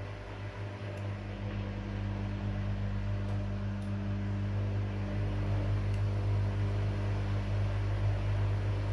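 Washing machine running with a steady motor hum, growing somewhat louder over the first few seconds and then holding level.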